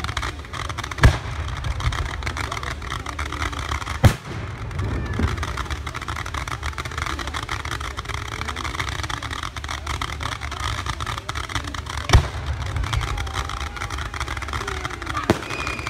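Firework shells bursting at a display: four sharp bangs, about a second in, near four seconds, near twelve seconds and near the end, over a steady low rumble.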